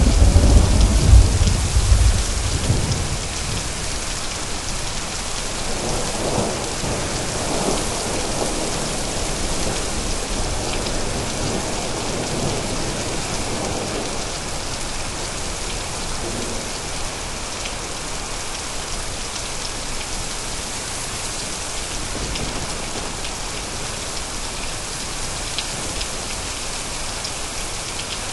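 Thunderstorm: steady rain falling, with a loud low thunder rumble at the start that dies away over the first two or three seconds and a fainter rumble rolling through about six to fourteen seconds in, then rain alone.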